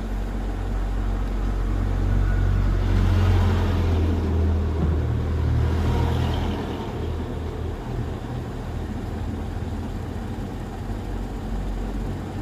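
Delivery truck's engine running with a steady low hum. It grows louder for a few seconds, about two seconds in, as if pulling away or accelerating, then settles back to an even run.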